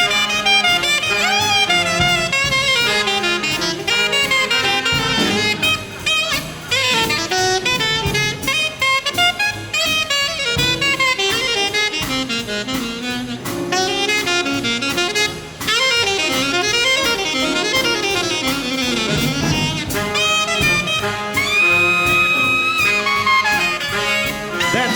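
Big band swing music: an alto saxophone plays a solo over the rhythm section and backing horns.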